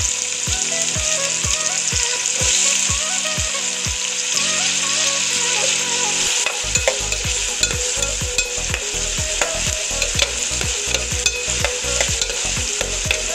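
Chopped onion and tomato sizzling in hot oil in a pot, a steady hiss. From about halfway through, a spoon stirs them, clicking and scraping against the pot.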